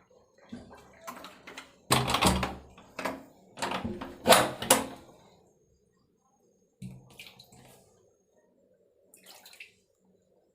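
Floodwater splashing and sloshing in a run of irregular bursts, loudest in the first half, then two shorter splashes later on.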